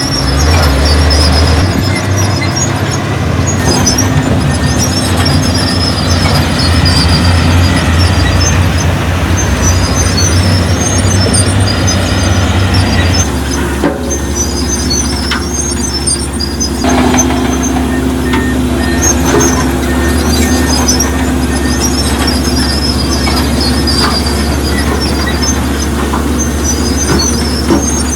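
Diesel engine of a crawler bulldozer running under load, with repeated high squeaks from its steel tracks. The engine note changes and drops about halfway through.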